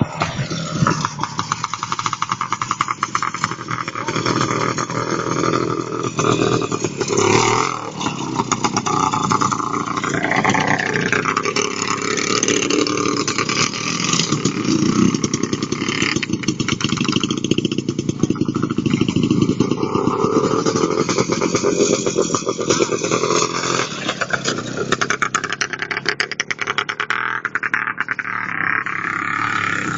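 Soviet IZh two-stroke motorcycle engine running loud and revving up and down unevenly as the bike is ridden over logs.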